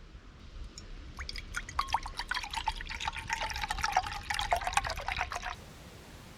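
Grape juice being poured into a drinking vessel, a run of splashes lasting about four seconds that stops near the end.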